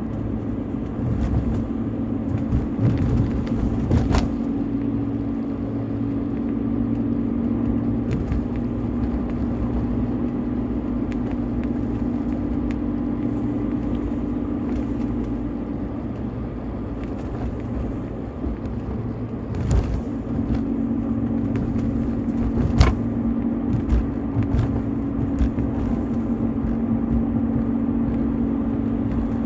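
BMW E46 320i's 2.0-litre M52TU straight-six running at a steady engine speed: a constant drone with low rumble. Several sharp knocks stand out, one about four seconds in and two more near two-thirds of the way through.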